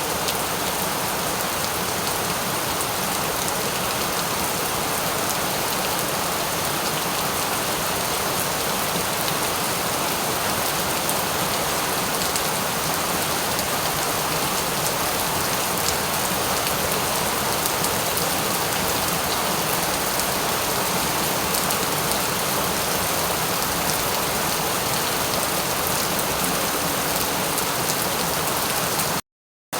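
Steady rain falling: an even hiss with scattered individual drops ticking through it. Near the end the sound cuts out completely for about half a second, then resumes.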